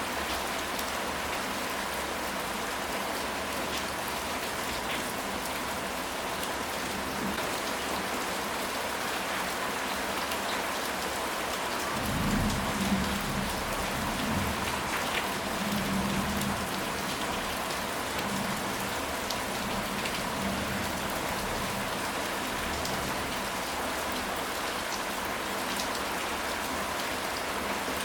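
Steady rain falling, an even hiss of drops. About twelve seconds in, a low rumble of thunder swells and fades over roughly five seconds.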